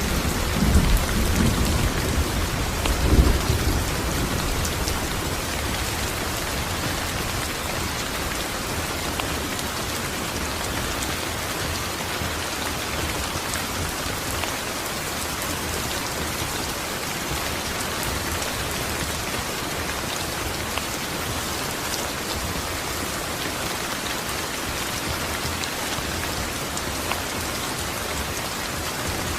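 Steady rain falling, an even hiss throughout. A low rumble of thunder dies away in the first few seconds.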